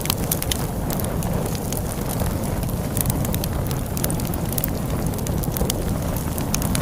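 Log fire crackling, with frequent irregular sharp pops, over a steady low rumble of storm wind.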